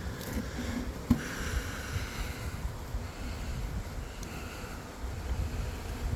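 Swarming honeybees buzzing faintly under an irregular low rumble, with one sharp click about a second in.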